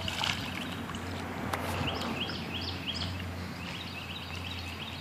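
Outdoor ambience: a steady low hum with a string of short, rising chirps repeated several times a second, and a couple of faint clicks.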